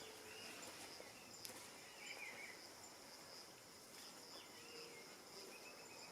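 Faint rural ambience: insects trilling steadily at a high pitch, with a few short chirps scattered through.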